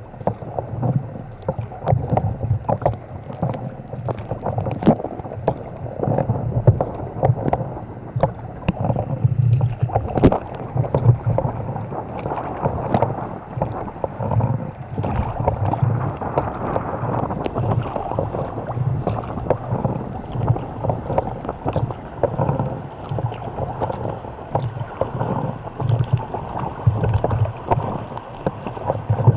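Sea kayak under way in choppy water: rhythmic paddle strokes with water splashing and slapping against the hull, punctuated by many short sharp splashes.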